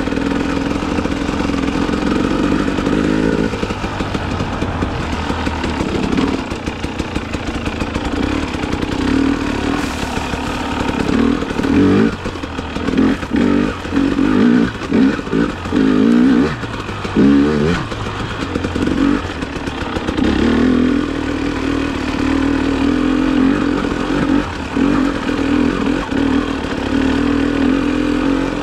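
KTM TPI two-stroke dirt bike engine running under way, with a run of short on-off throttle bursts around the middle before it settles back to a steady pull. The engine is not fully warmed up and is being test-ridden for a sputter after a new crankcase pressure sensor was fitted.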